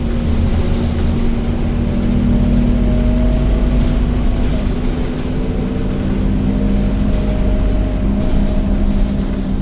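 Scania K230UB Euro IV bus running steadily on the move: a loud, even engine and drivetrain drone with a faint whine that drifts slightly up and down in pitch.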